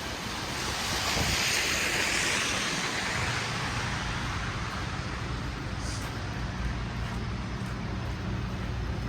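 A vehicle driving past on a slushy, snow-covered street: a wet tyre hiss swells and fades over the first few seconds, leaving a low, steady engine hum.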